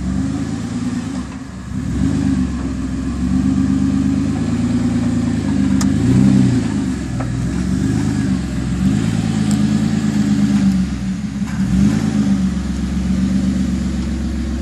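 Small 4x4 crawler's V6 engine revving up and down over and over as it works under load, with a few sharp clicks about six, seven and nine seconds in.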